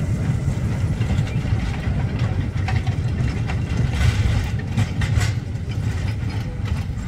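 Small narrow-gauge locomotive's engine running with a steady low rumble as it pulls its coaches past, with a few light clicks from the passing train midway through.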